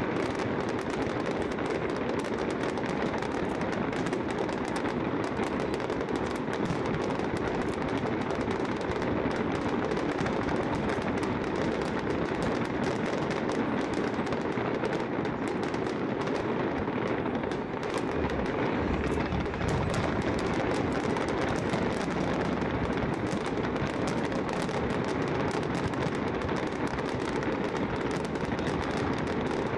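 Aerial fireworks display: shells bursting and crackling in a dense, continuous barrage of rapid bangs.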